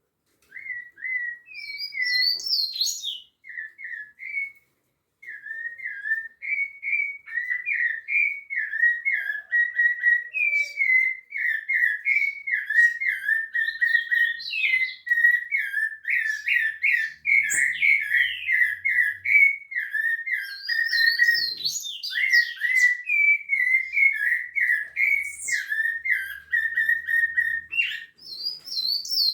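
Rufous-bellied thrush (sabiá-laranjeira) singing a long, nearly unbroken run of short phrases that rise and fall around one middle pitch, with higher notes now and then and a brief pause about five seconds in.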